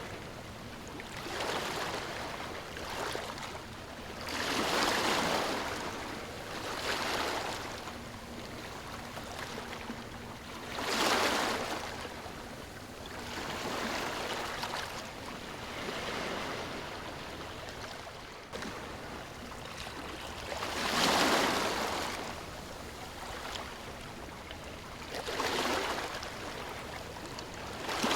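Ocean waves washing ashore in slow, irregular surges every few seconds, each swelling and then fading, over a steady background wash of water.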